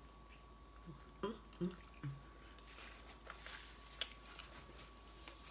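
Chewing a mouthful of chicken burrito, with a few short, wet mouth sounds between one and two seconds in. Near the end, a paper napkin rustles and dabs at the mouth.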